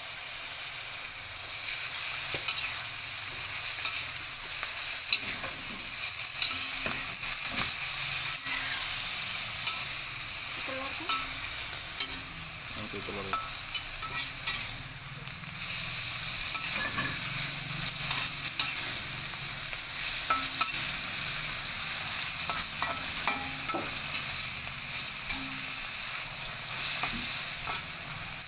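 Oyster mushrooms sizzling in hot oil in a black wok, stirred with a long metal spatula that scrapes and clicks against the pan now and then.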